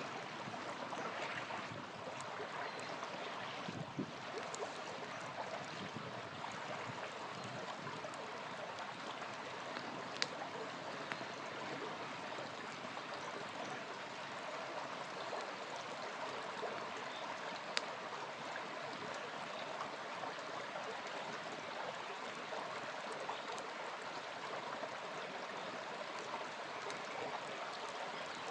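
Small river flowing steadily over stones, with a campfire giving a few sharp pops, the clearest about ten seconds in and again near eighteen seconds.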